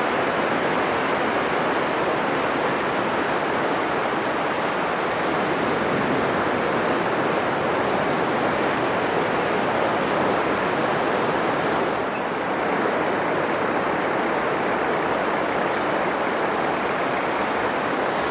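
Atlantic surf breaking on a sandy beach: a continuous, steady wash of noise from waves and foam, dipping briefly about twelve seconds in.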